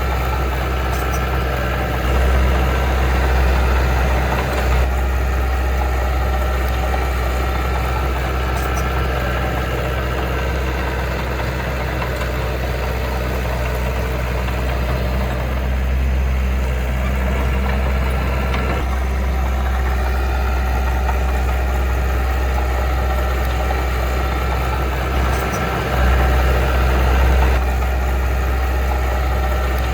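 Diesel engine of heavy earthmoving machinery running steadily with a deep rumble, swelling louder for a few seconds about two seconds in and again near the end.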